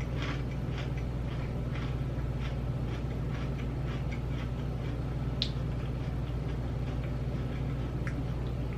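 Close-up crunching of dill pickle potato chips being chewed, about two to three crunches a second, fading to fainter chewing in the second half, over a steady low hum.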